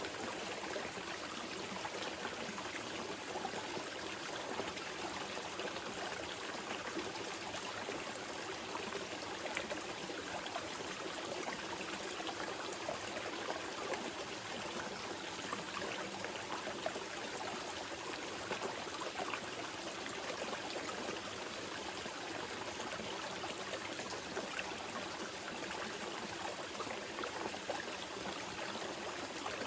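Small mountain river flowing gently over stones, a steady babble with many small trickles and splashes.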